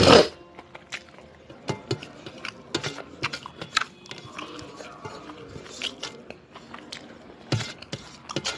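Close-miked chewing of food, with irregular wet mouth clicks and smacks and a louder smack right at the start.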